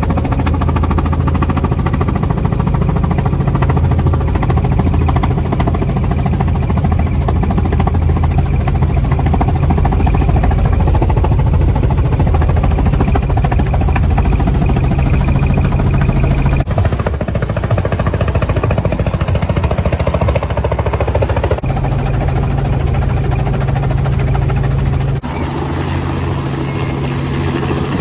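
Helicopter in flight: steady rotor and engine noise with a rapid low chopping pulse. The sound changes abruptly three times, as clips are cut together.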